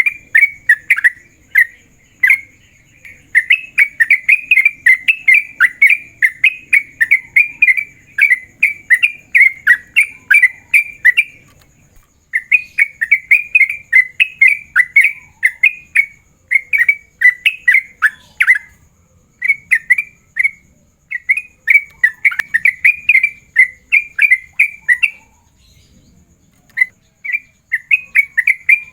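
Yellow-vented bulbul (trucukan) singing loud, fast runs of short chattering notes in long continuous strings (the 'ropel' style), broken by a few brief pauses. This is the bird's gacor calling song, used to challenge and lure a rival male.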